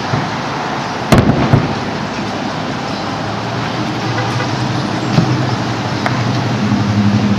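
Fireworks going off in the distance: a sharp bang about a second in, a second one half a second later and a fainter pop around five seconds, over steady outdoor traffic noise. Near the end a low engine hum joins in.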